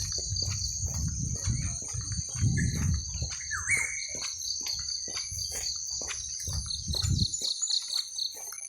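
A steady, high-pitched chorus of insects trilling without a break, with a short bird chirp about three and a half seconds in. Under it runs a low rumble that stops about seven seconds in.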